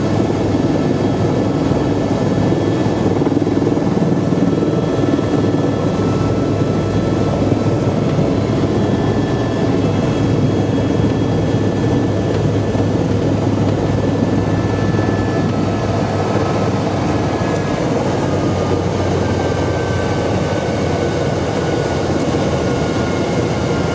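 Tour helicopter running steadily, heard from the passenger cabin: a dense, even rotor and engine noise with a faint high turbine whine over it.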